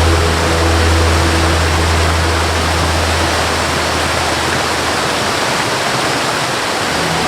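Waterfall rushing steadily. A low held note of the accompanying melody sounds underneath and fades out about halfway through.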